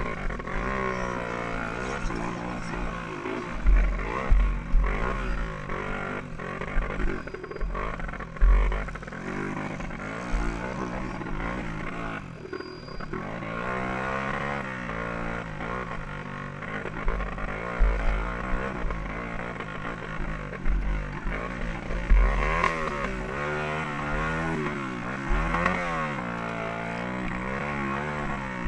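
Small-displacement dirt bike engine of the 125–200 cc class, heard on board, revving hard and falling back again and again as the rider opens and closes the throttle and shifts gear. Low thumps break in at intervals through it.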